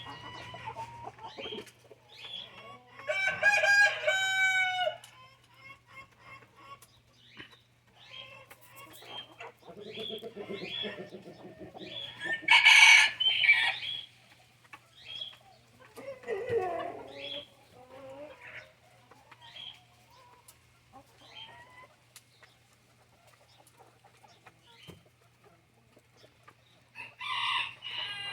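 Brahma chickens clucking while they feed, with a rooster crowing about three seconds in and a louder call about halfway through. A steady low hum runs underneath.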